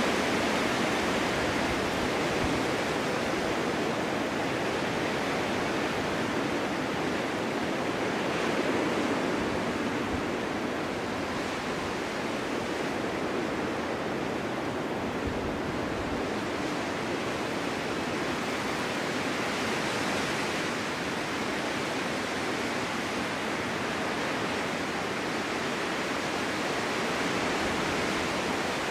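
Snowstorm wind rushing steadily, swelling and easing slowly.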